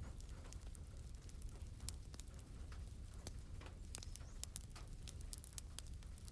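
Wood fire crackling in a fireplace, with many sharp, irregular pops over a low steady rumble and soft rain patter.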